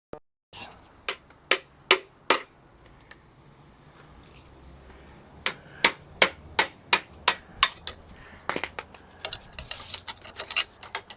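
Sharp metal-on-metal taps in evenly spaced runs: four about half a second apart, then a faster run of about seven a few seconds later, followed by lighter, busier clinking of metal parts near the end.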